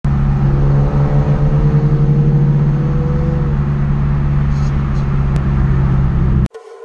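Pontiac G8 (Holden Commodore) engine and exhaust droning steadily, heard from inside the cabin while cruising, with a slight rise in pitch over the first few seconds. It cuts off suddenly near the end.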